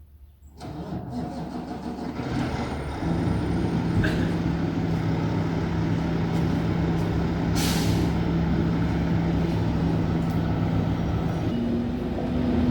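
Motor vehicle engine running steadily, with a brief hiss of air a little past halfway and a higher engine note coming in near the end.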